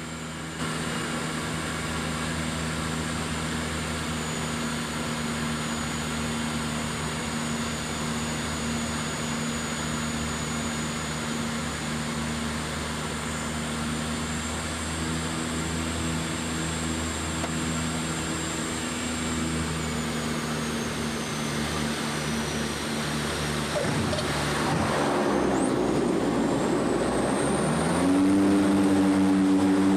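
Twin Otter's twin turboprop engines and propellers droning steadily on approach, with a high turbine whine above. Near the end a rush of noise comes in, then the engine note steps up in pitch and grows louder, as on touchdown with the propellers reversed to brake.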